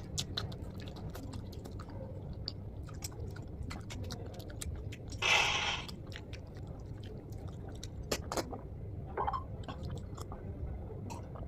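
Close-miked chewing of food, with many small wet mouth clicks. About halfway through comes one louder hissing sound lasting under a second.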